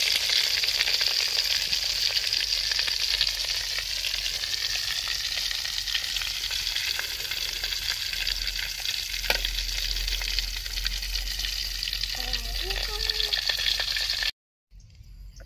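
Battered chicken legs frying in hot oil in an aluminium wok: a steady, crackling sizzle, with one sharp click about nine seconds in. The sizzling stops abruptly near the end.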